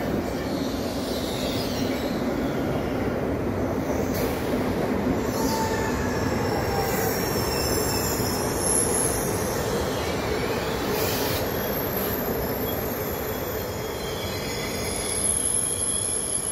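PKP Intercity Pendolino (ED250) electric train moving slowly along the platform, a steady rolling rumble echoing in the enclosed underground station, with thin high wheel squeals now and then.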